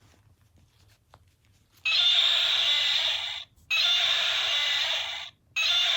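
Sound box in a Douglas Tyrannosaurus rex plush toy playing its recorded roar three times in a row, each roar about a second and a half long, after a small click about a second in.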